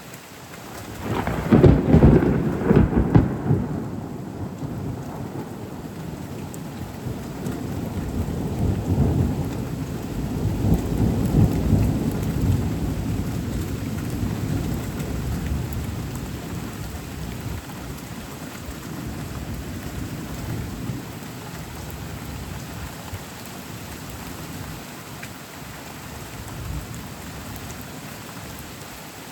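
Thunder over steady rain: a sharp nearby crack about a second and a half in, breaking into heavy rumbling, then a second long rumble that swells and slowly dies away under the continuing rain.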